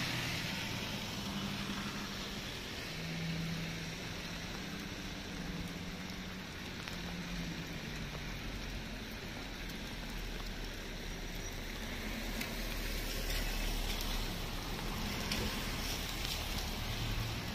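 Light rain falling steadily on wet paving, with a faint hum of distant traffic. Scattered sharper ticks come in the last few seconds.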